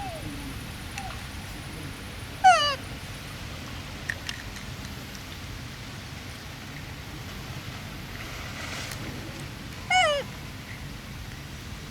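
Baby monkey giving short, high calls that slide down in pitch, with two loud ones about two and a half seconds in and again near the end, and fainter ones near the start.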